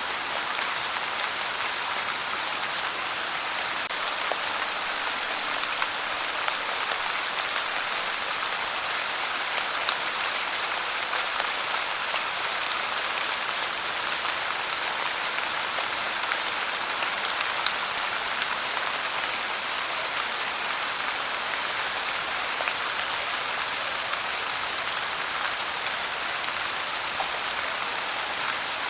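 Steady rain falling: an even, unbroken hiss flecked with the patter of individual drops.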